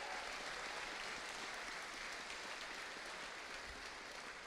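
Audience applause, a steady patter of many hands clapping that begins to fade near the end.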